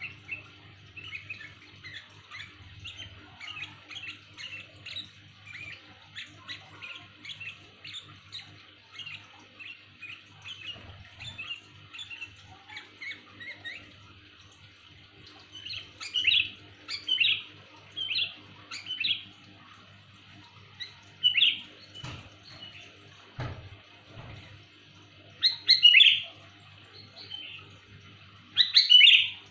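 Sooty-headed bulbul calling: a run of quick, soft chirps, then from about halfway louder, clear call phrases every second or two. Two dull thumps sound a little after the louder calls begin.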